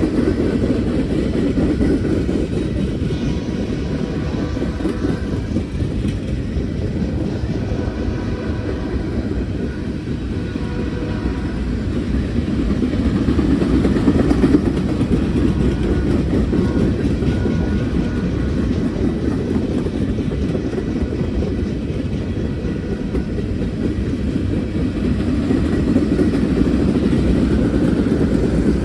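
Norfolk Southern freight train rolling past, a steady rumble of steel wheels on the rails that swells and eases slightly as the cars go by.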